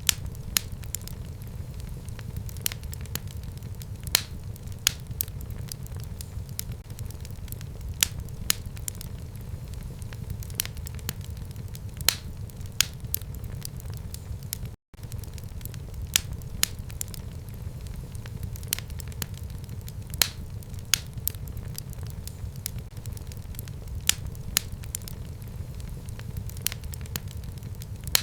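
Fire burning in a home fireplace: steady crackling with irregular sharp pops several times a second over a low rumble of flame. The sound cuts out for a split second about halfway through.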